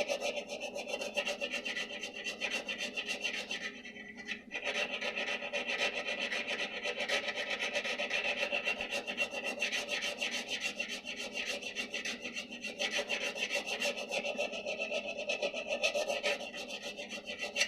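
Hand file rasping on a brass saxophone key arm in rapid back-and-forth strokes, shaping it to fit the pad cup before soldering, with a short pause about four seconds in.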